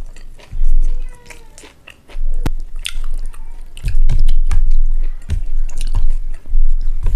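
Close-miked chewing and biting of a mouthful of rice and egg curry: an irregular run of soft clicks and low thumps, louder from about four seconds in.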